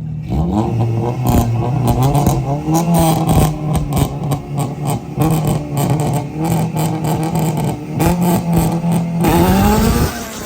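Car engine revving hard, its pitch climbing and holding several times over, with sharp crackles throughout; it drops off near the end.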